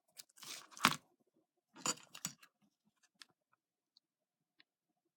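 Small craft pieces being handled on a desk: brief rustling with a couple of sharp clicks, the loudest just under a second in, and another around two seconds in, then only a few faint ticks.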